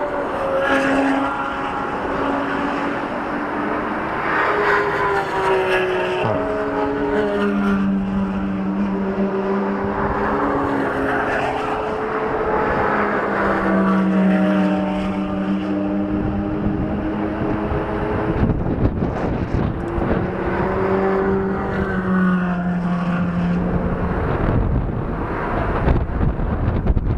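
Supercar engine running at low to moderate revs, its pitch rising and falling slowly over several seconds as the car is driven. Near the end it gives way to a rougher rushing noise.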